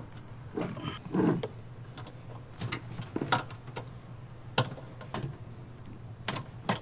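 Scattered light clicks and knocks from parts and wiring being handled during the install, over a faint steady hum.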